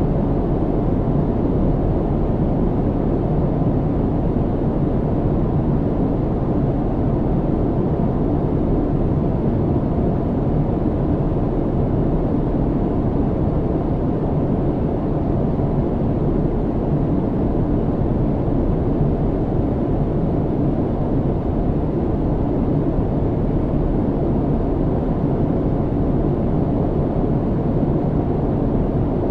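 Airliner cabin noise in flight: a steady low rumble and rush of engine and airflow noise, even and unchanging.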